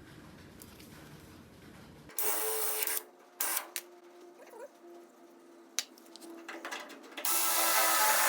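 Power drill boring into the steel door hinge bracket of a 1974 Ford F250: two short bursts of drilling with a few clicks between, then a sustained run of drilling near the end.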